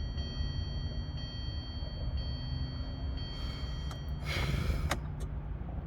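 A person's sharp exhale, a frustrated sigh, about four seconds in, over a steady low rumble, followed by a couple of light clicks.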